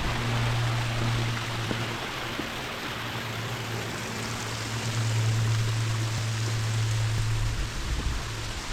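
Steady rush of falling water, over a low steady hum that drops out briefly about two seconds in and again near the end.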